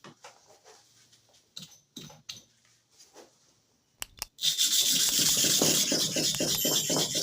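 Upper hair clipper blade being rubbed back and forth on a manual sharpening stone: a few light clicks of handling, then from a little past halfway a steady, rough scraping of quick strokes, about four a second, as the blade is ground flat.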